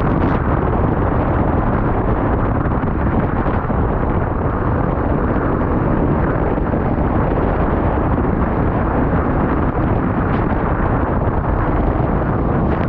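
Loud, steady rumbling noise of a running vehicle, with wind buffeting the microphone.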